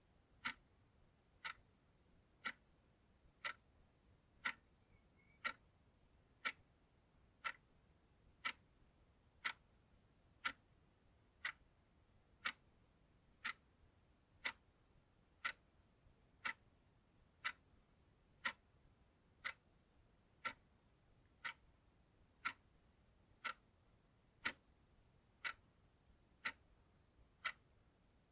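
Clock ticking steadily, one sharp tick per second.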